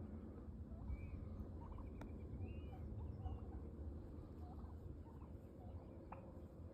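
Soft turkey clucks and purrs: a string of short, quiet notes with two faint clicks, over a steady low rumble.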